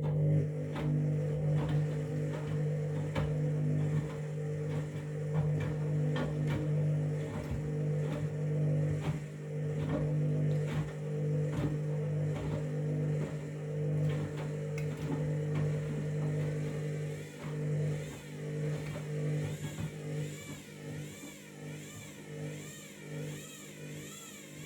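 Washing machine motor turning the drum, a steady hum with a wavering whine and repeated knocks from the tumbling load. It starts suddenly and dies down over the last several seconds.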